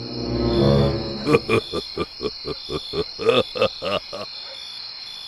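A steady high cricket-like trill with a run of short repeated animal calls, about two or three a second, starting about a second in and stopping shortly before the end.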